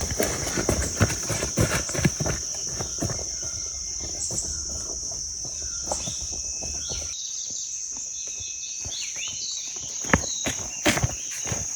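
A steady high-pitched drone of forest insects (cicadas or crickets), with footsteps on the forest floor. There are a few short bird chirps in the middle.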